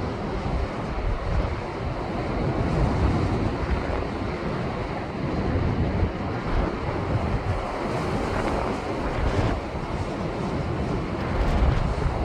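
Heavy surf left by a passing typhoon, waves breaking and washing over shoreline rocks in a continuous rush that swells louder several times, most strongly near the end. Wind buffets the microphone with low rumbles throughout.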